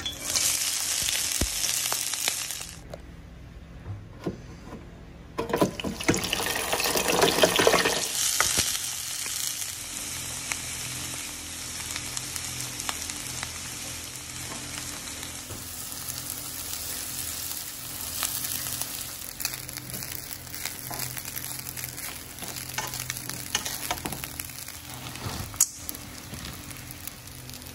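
Food sizzling in hot oil in a wok as diced vegetables and then rice are stir-fried, with the clack and scrape of a wooden spoon against the pan. The sizzle is loudest in the first couple of seconds and again from about six to eight seconds in, then settles to a steadier, lower frying sound.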